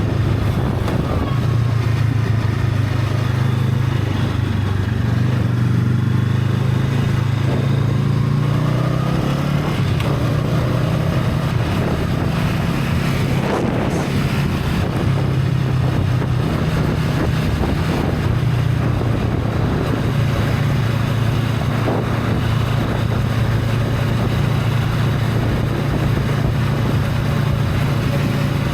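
Honda Rebel 500's parallel-twin engine through its stock exhaust, running steadily under way, with wind on the microphone. The engine note shifts briefly a little under half-way through, and there is one short sharp sound soon after.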